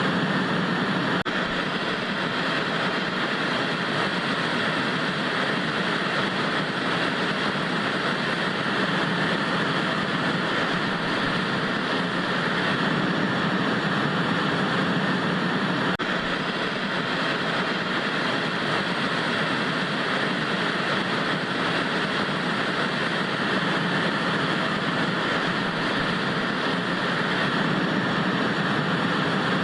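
Steady TV static hiss: an even, unchanging white-noise-like rush.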